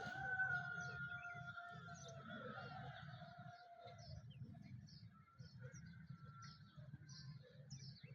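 Dawn bird chorus: many small birds chirping in short, quick calls. In the first three seconds or so a long, drawn-out tone sounds and falls slightly in pitch before fading, over a low, steady rumble.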